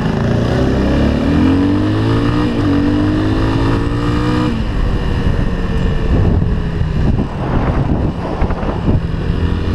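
Off-road vehicle engine under way, pitch rising steadily as it accelerates for about four and a half seconds, then easing off. After that the running turns rougher and noisier, with uneven knocks.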